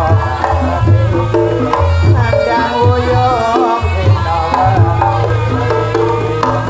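Reog Ponorogo ensemble music: a wavering, bending reed melody over steady hand-drum strokes and long, deep gong tones.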